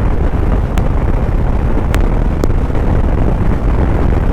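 Suzuki motorcycle riding at speed: a steady loud rumble of wind on the microphone and engine, with three sharp ticks, the last two close together.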